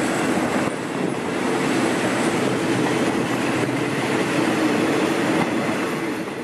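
Passenger coaches of a train rolling past along the track: a steady rumble of wheels on rail.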